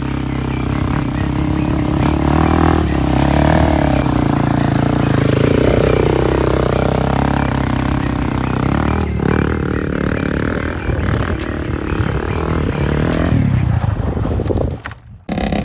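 Quad (ATV) engine running and being revved, its pitch rising and falling, then cutting off abruptly just before the end.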